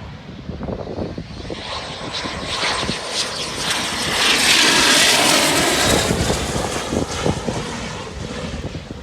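BAE Hawk T1 jet trainer's turbofan engine as the aircraft passes on landing: a rushing jet noise that swells to its loudest about halfway through, then fades.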